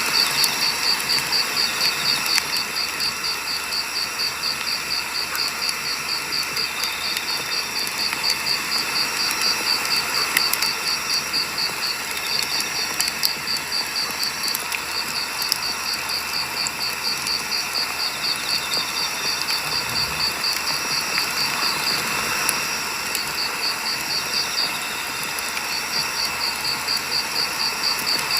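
Firewood burning with a few scattered crackles, under a steady high chirping that pulses several times a second and pauses briefly a few times.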